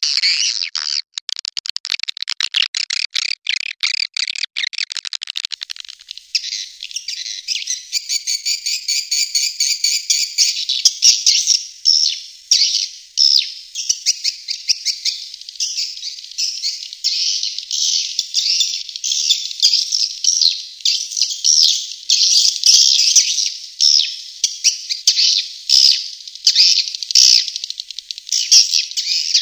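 Recorded swiftlet calls played as a lure sound for swiftlet houses. Rapid dry ticking gives way about six seconds in to a dense, pulsing chorus of high twittering chirps and trills.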